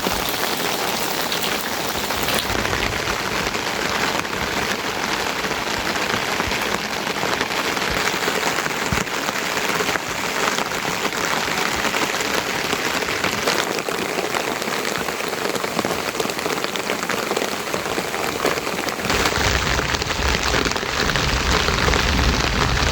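Steady rain falling, a dense patter of drops. A low rumble joins near the end.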